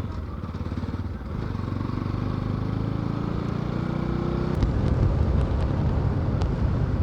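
Motorcycle engine running while being ridden, picking up about a second in, then a louder, rougher rumble in the second half.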